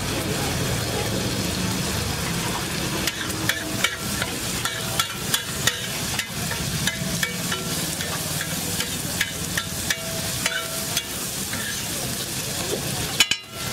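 Egg mixture sizzling steadily on a hot flat griddle, with a spatula repeatedly tapping and scraping against the griddle from about three seconds in as the chopped boiled egg, onion and tomato are mixed.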